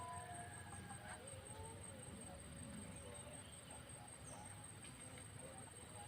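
Faint outdoor ambience: a steady high-pitched insect-like trill with a few soft, short chirps scattered through it.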